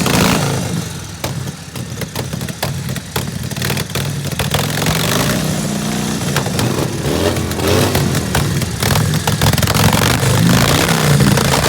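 Harley-Davidson 45 cubic inch flathead V-twin race engine warming up, running at a fast idle with short throttle blips that send the revs up and back down.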